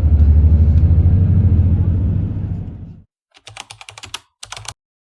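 Bus interior: the engine and road make a steady low rumble, which cuts off abruptly about three seconds in. A quick run of light clicks follows, ending in silence.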